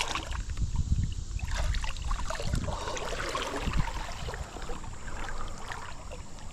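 Creek water splashing and trickling, with scattered small clicks and a low rumble of handling on the microphone.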